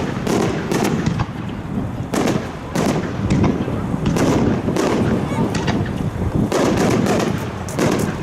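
Fireworks display: a dense run of aerial shell bursts, many loud bangs in quick succession overlapping one another.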